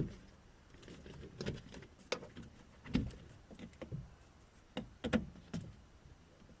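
Scattered clicks, taps and knocks from parts of a car door being handled and fitted during reassembly. The sharpest click is right at the start, and there is a small cluster of knocks about five seconds in.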